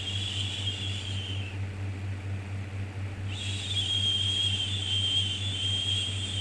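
A 'shhh' shushing sound for soothing a baby, coming in long repeated shushes: one fades out about a second and a half in, and the next starts about three seconds in and holds, all over a steady low hum.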